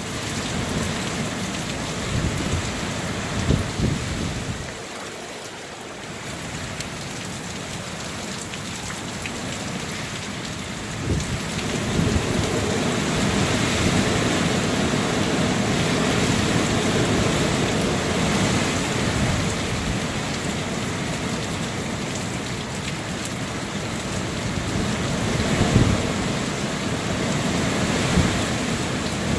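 Strong wind blowing in gusts, with low rumbling surges. It eases about five seconds in and builds again from about eleven seconds.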